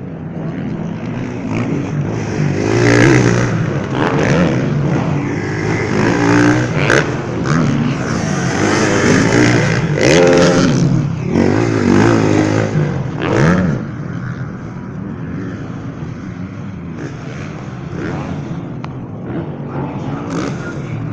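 Motocross dirt bike engines revving, their pitch climbing and dropping again and again. They are loudest in the first two-thirds, then settle to a steadier, quieter drone.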